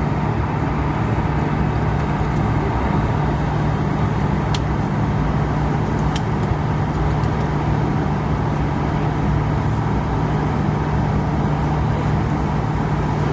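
Steady cabin noise inside an Airbus A220-300 taxiing after landing: an even rush of air with a constant low hum from the engines and air system, and a couple of faint ticks partway through.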